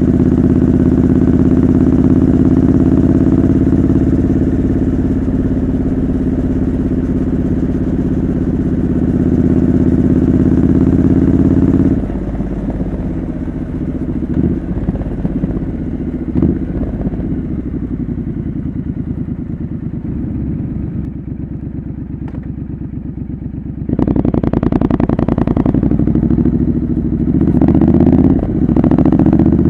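Triumph Scrambler 900's parallel-twin engine through a homemade exhaust, running under steady throttle, then dropping off suddenly about 12 s in to a quieter, rougher sound while coasting, with a couple of short blips. About 24 s in it opens up again, with a brief dip near the end like a gear change. Wind noise on the microphone.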